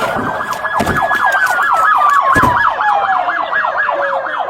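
Police car sirens sounding together: a slow wail that rises, then falls over about four seconds and starts rising again near the end, overlaid by a fast yelp rising and falling about six times a second. Two dull thumps come through, about a second and two and a half seconds in.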